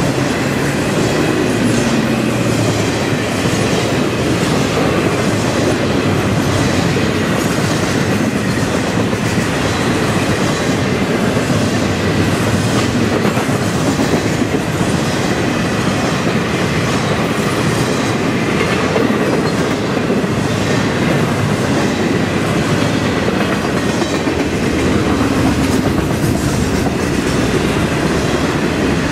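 Freight train of trailers on flatcars rolling past at speed: a steady loud rumble of steel wheels on rail with a rhythmic clickety-clack of the wheels.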